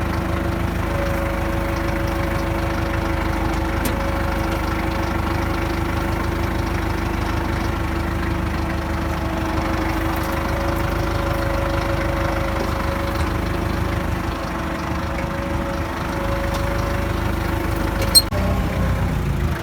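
Kubota M8200 utility tractor's diesel engine running at a steady speed while pulling a subsoiler through the ground to open a furrow about four inches deep. A single sharp click about eighteen seconds in.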